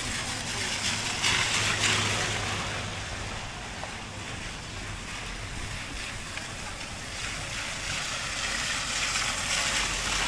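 Steady hiss of rain falling while walking along a street, swelling louder about a second in and again near the end.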